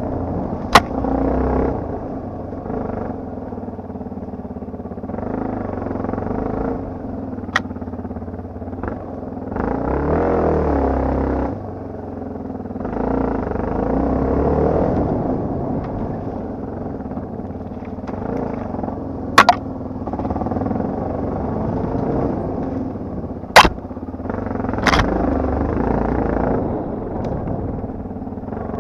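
Yamaha TT250R's single-cylinder four-stroke engine running under changing throttle off-road, the engine note rising and falling every few seconds. Several sharp knocks cut through it, the loudest two about two-thirds of the way through.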